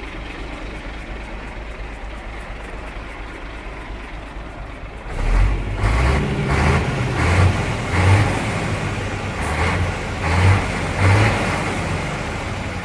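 DAF XF315M 12.6-litre straight-six turbodiesel in a DAF 95XF truck, idling steadily and then revved in a string of short blips from about five seconds in, easing back toward idle near the end. The engine runs evenly.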